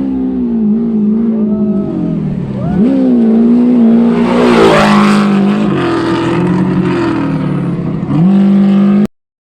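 Class 1 desert race buggy engine revving hard, its pitch dipping and climbing again and again as the throttle is lifted and reapplied, loudest as it passes close about halfway through. The sound cuts off abruptly near the end.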